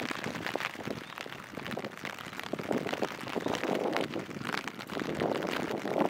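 Rain falling on a city street, with a dense, irregular scatter of sharp drop clicks close by.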